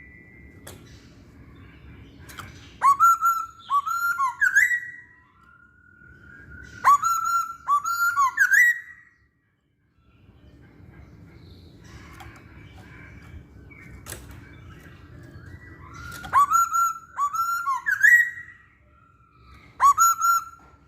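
Masked laughingthrush (poksay Hongkong) singing: loud whistled phrases of about two seconds, each a run of quick sweeping notes that ends on a higher rising note. Three full phrases, then a short one near the end, with pauses between them.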